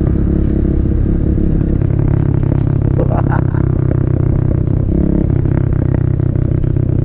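Pit bike engine running hard as the bike climbs through soft, silty dirt, its pitch shifting about five seconds in.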